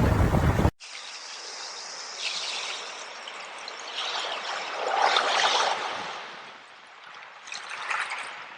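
Loud surf and wind noise stops abruptly under a second in, giving way to a small stream of water trickling and running, which swells in the middle and again near the end.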